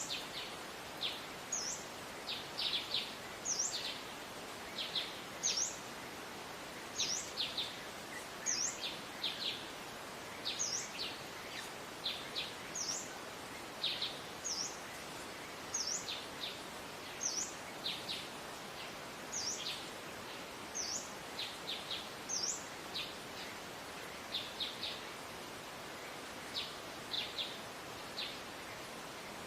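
Wild songbirds calling: a sharp, high chirp repeated about every one and a half seconds, with clusters of short, lower notes in between, over a steady background hiss.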